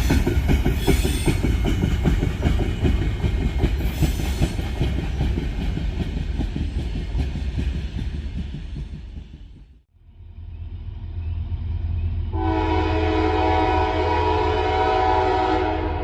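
Diesel freight train rolling past close by, wheels clattering over the rail joints, the sound fading away toward the middle. Then a diesel locomotive's engine rumbles and its horn sounds one blast of about three seconds, a steady chord of several tones.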